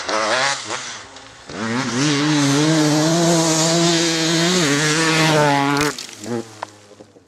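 KTM 300 EXC's single-cylinder two-stroke engine revving. Quick throttle blips rise and fall, then the engine is held at high revs for about four seconds, and the sound cuts off suddenly near the end.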